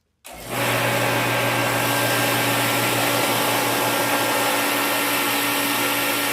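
Reddy Heater Pro 150 kerosene forced-air heater starting up after a reset: its sound comes on suddenly about a third of a second in and settles at once into a loud, steady running noise of fan and burner.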